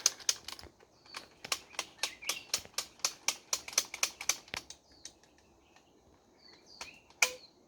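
Rapid, irregular sharp clicks and taps, about four to five a second, thinning out after four seconds, with one louder click near the end. Faint, short, high bird chirps sound between them.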